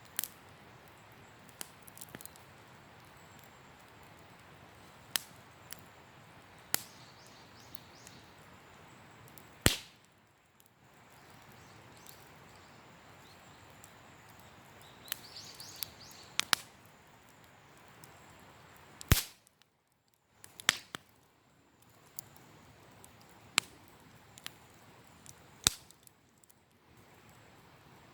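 Wood campfire crackling: a low steady hiss broken by irregular sharp pops and snaps of burning wood, the loudest about a third of the way in, two-thirds in and near the end.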